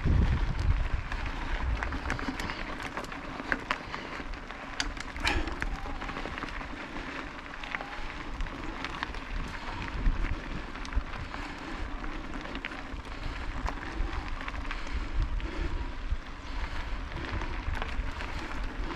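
Fat-tyre bike riding over a forest trail: steady rolling noise with many small clicks and rattles, over a low, uneven rumble.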